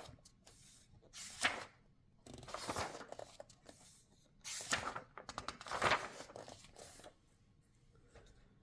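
Pages of a paperback coloring book being turned, about four separate papery swishes and rustles spread a second or more apart.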